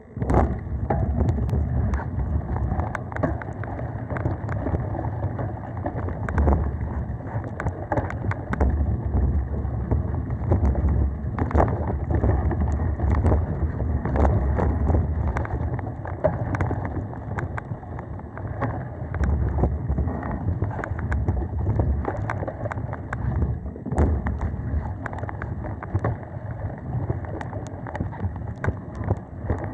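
Mountain bike riding over a dirt singletrack trail: a steady low rumble of wind on the microphone and tyres on the ground, with frequent clicks and rattles from the bike.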